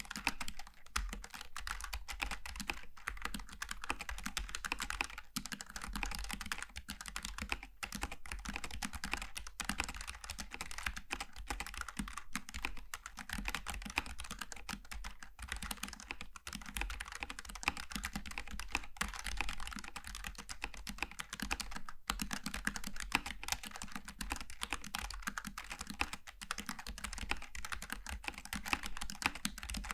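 Continuous fast typing on a Logitech G915 TKL low-profile mechanical keyboard with tactile switches: a dense, even stream of key clicks with no pauses.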